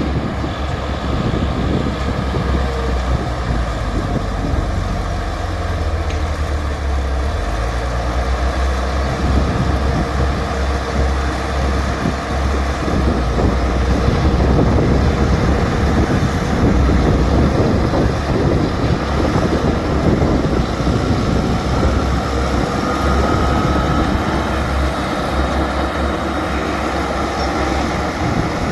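Bulldozer's diesel engine running steadily under load, with a deep low rumble throughout.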